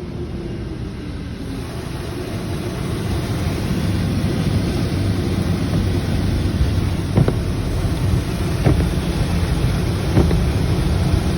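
Ryko car wash dryers blowing air over the car: a steady rush of air that grows louder over the first few seconds. Three brief knocks come about a second and a half apart in the second half.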